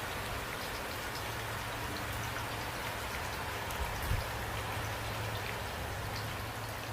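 Steady rain falling, with many separate drops ticking on a surface over an even hiss and a low rumble underneath. A brief low thump comes about four seconds in.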